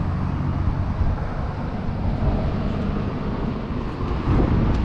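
Steady road and engine rumble heard inside a moving Hyundai Venue car.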